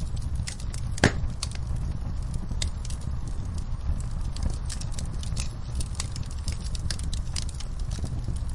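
Wood fire crackling, with irregular sharp pops and snaps over a steady low rumble; one louder pop about a second in.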